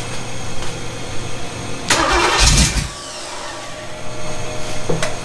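Chevy 350 small-block V8 with a solid-lifter Comp cam running on an engine test stand through Flowmaster mufflers. About two seconds in it surges loudly for about a second, then drops back quieter, as the distributor is being turned to set the ignition timing.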